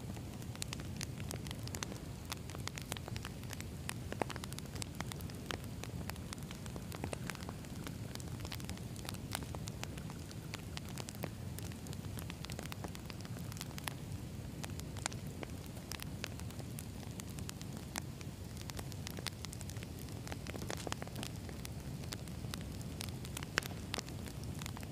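Wood fire burning in a campfire, crackling with many small, sharp, irregular pops over a steady low rush of flame.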